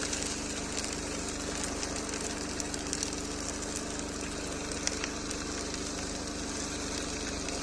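Small engine running steadily at an even idle-like pitch, with faint scattered ticks over it.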